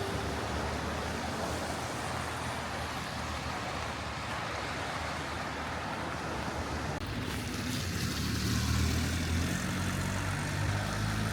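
Steady outdoor background noise with no clear single source; a low rumble grows stronger from about seven seconds in.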